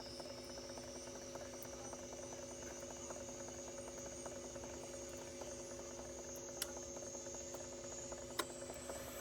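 A steady electrical hum made of several constant tones, with a faint high whine slowly rising in pitch, scattered light ticks, and two sharp clicks late on.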